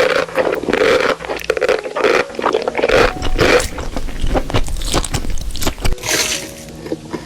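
People eating noodles close to the microphone: a dense, irregular run of chewing and biting noises, with a longer hissing sound about six seconds in.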